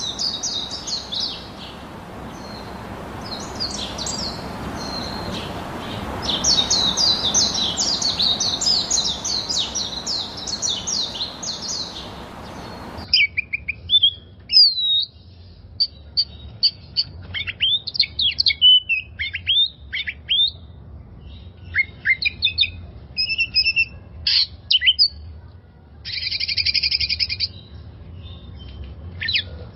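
Small songbirds chirping: a dense run of rapid high chirps over a background hiss that changes abruptly about halfway to a cleaner recording of separate sharp chirps and short whistles, with a brief buzzy trill near the end.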